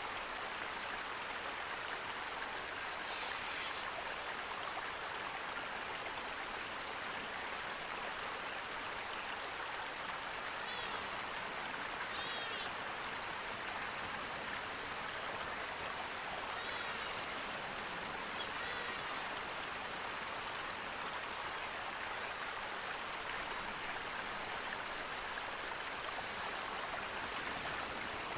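Steady rush of flowing water, with a few short, faint bird chirps now and then.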